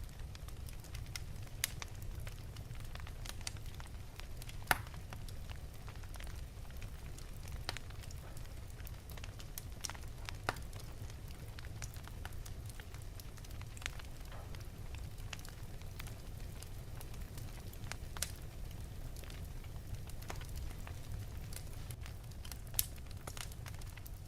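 Fire burning in an open fireplace, crackling with irregular sharp pops over a low steady rumble; a few pops are louder, about five seconds in, ten seconds in, and near the end.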